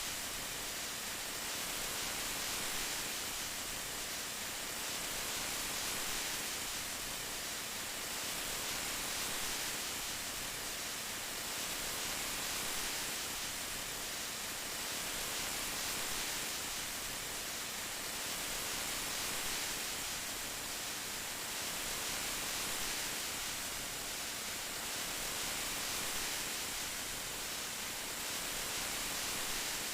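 Steady rain falling, a dense, even hiss with gentle swells every few seconds.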